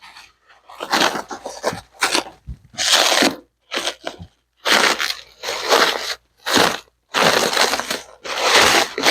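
Plastic packaging being pulled and unwound from a compressed roll of upholstery foam, rustling in about ten irregular bursts with short pauses between.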